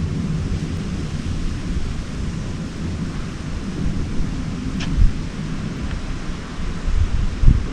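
Wind gusting against the microphone: a steady low rumble that swells and buffets, with a hard gust about five seconds in and another near the end.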